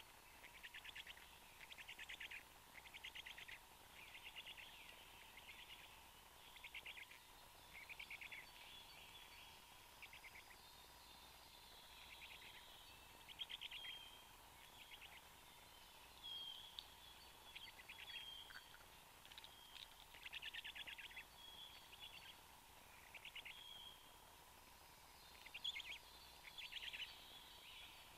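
Faint bird calls: short buzzy, rasping notes repeated roughly once a second, with a few thin high chirps among them.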